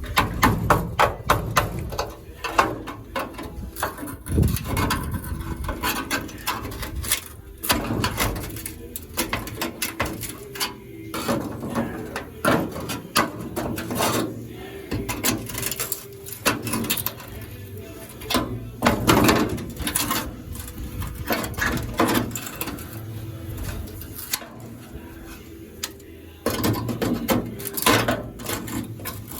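Irregular metallic knocks and clanks of rusted car-body sheet metal being hammered and pried loose, over a faint steady hum.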